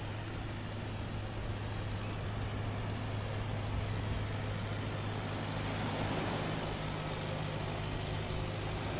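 Steady wash of sea surf with wind on the microphone, under a constant low hum.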